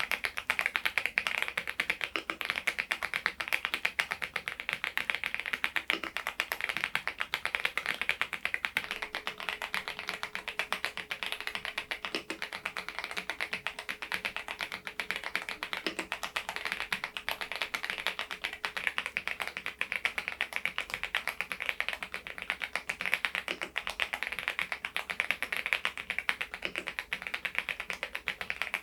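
Continuous typing on an AULA F99MAX mechanical keyboard with Leobog Reaper switches: a dense, steady stream of keystroke clacks.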